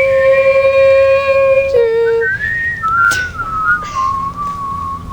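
A slow whistled melody: one long held note, a short lower note, then a wavering whistle that slides down in pitch.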